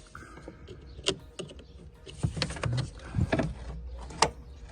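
Hand work with tools: scattered sharp clicks, taps and knocks, a cluster of heavier thuds in the middle and the sharpest click near the end, with a faint short tone near the start.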